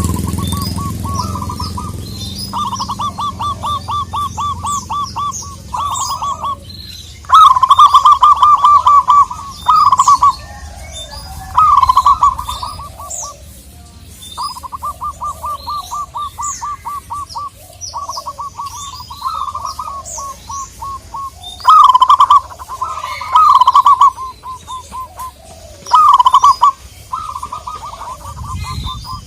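Zebra doves cooing: repeated runs of rapid staccato coos, several runs much louder than the rest. Short high chirps from other small birds are scattered over them.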